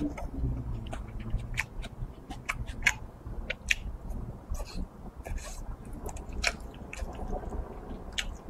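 A person chewing a mouthful of food close to the microphone: irregular wet smacks and mouth clicks, several a second.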